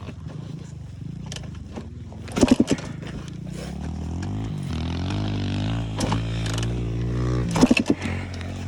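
Motocross bike engine running and revving up, its pitch climbing over a few seconds in the middle and then dropping. Two short loud bursts of noise cut in, about two and a half seconds in and near the end.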